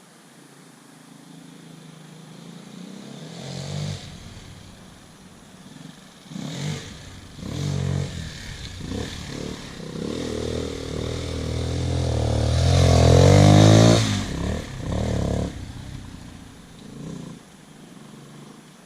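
Enduro motorcycle engine revving as it rides around a dirt track. It builds and falls with the throttle, rising in pitch and growing loudest about two-thirds of the way through, then fades away.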